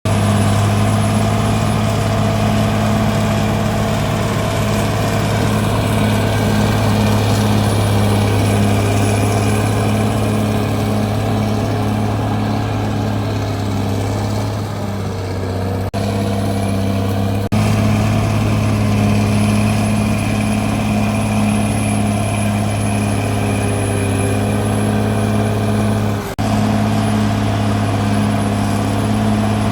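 CAT D6R bulldozer's diesel engine running steadily at a constant pitch, with a slight drop in level about halfway through and a few abrupt breaks.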